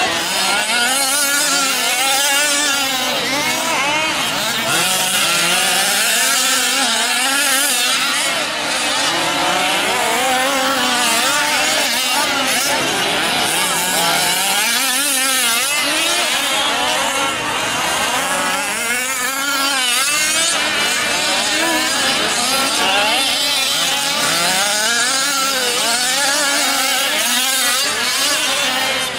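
Several 1/5-scale RC off-road trucks' small two-stroke gasoline engines revving up and down together as they race, their overlapping pitches rising and falling constantly.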